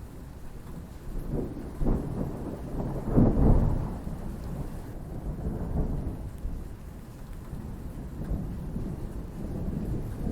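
Thunderstorm: a roll of thunder builds about a second and a half in and peaks a couple of seconds later, then fades back into a continuous low rumble with steady rain.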